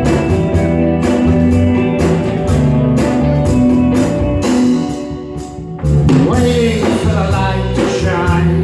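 Live rock band playing: electric guitars, bass and drums on a steady beat. The band eases off about five seconds in and comes back in full just before six seconds.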